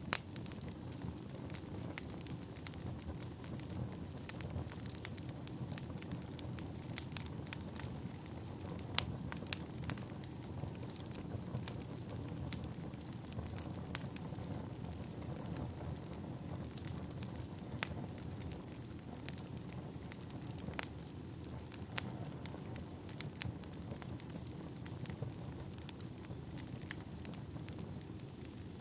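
Wood fire burning: a steady low rumble of flames with irregular sharp crackles and pops from the burning logs. A faint high whistle comes in near the end.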